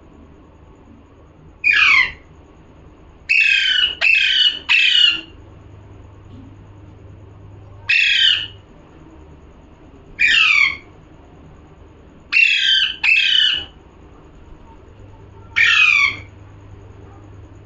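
Pet parrot squawking: nine harsh, short calls, each falling in pitch, some singly and some in quick runs of two or three.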